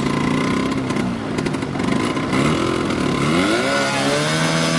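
Engine running, its pitch wandering at first, then revving up about three seconds in and holding at the higher speed.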